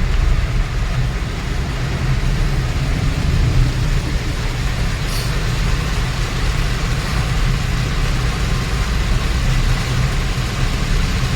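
Car driving along a rain-soaked highway: a steady low rumble of engine and tyres under an even hiss of spray and rain.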